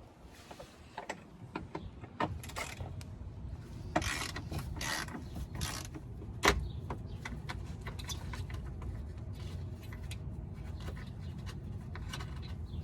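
Socket ratchet on an extension clicking in short runs as the 10 mm side screws are loosened, with scattered metallic clicks and a sharp knock about six seconds in.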